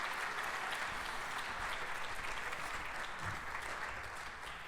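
Large audience applauding, the clapping slowly dying away toward the end.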